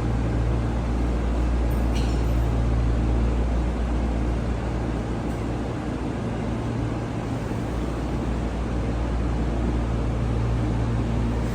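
Taiwan Railways train running by with a steady low rumble and hum.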